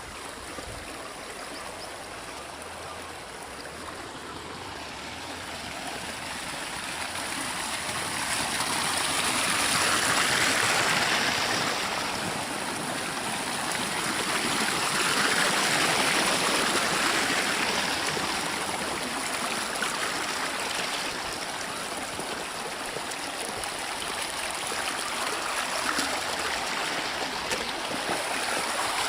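Rainwater runoff rushing off a hillside in a fast stream after heavy rain, a steady rush of water that swells louder twice, about ten and sixteen seconds in.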